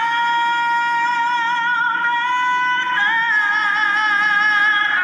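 A woman singing, holding long notes with vibrato; the pitch steps up about three seconds in.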